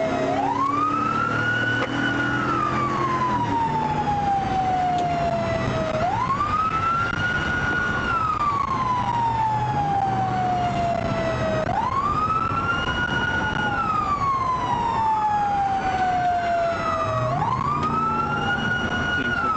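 Police siren on a slow wail, each cycle jumping quickly up in pitch and then gliding slowly down, about every five and a half seconds. A second siren wailing out of step joins in the last few seconds.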